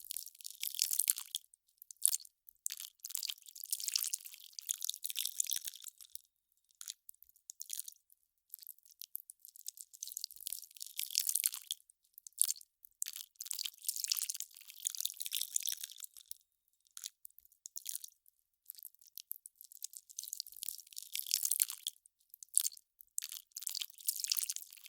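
Melting ice crackling: irregular bursts of fine, crisp crackle, all high in pitch, separated by brief silences.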